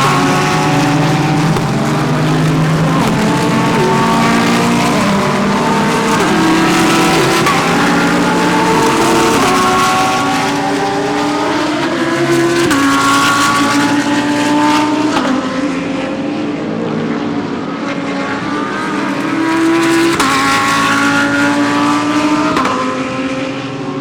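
GT3 race car engines at full throttle, several cars overlapping, each rising in pitch and then stepping down again with each upshift.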